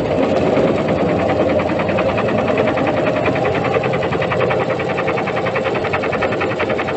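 Washing machine running with a brick inside the drum, making a fast, even rattling at several beats a second over a steady mechanical running sound.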